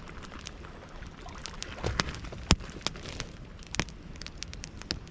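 Campfire crackling with irregular pops, a sharp one about two and a half seconds in, over a steady hiss of rain and low wind rumble on the microphone.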